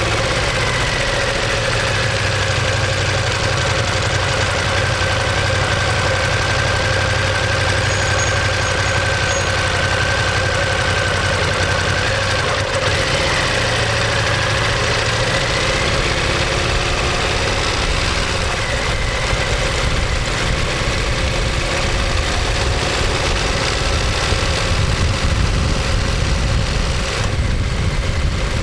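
Ducati Monster 1200S's 1198 cc L-twin engine and exhaust running on the move, picked up close to the muffler and engine. The engine note holds fairly steady, easing down and rising again a few times as engine speed changes.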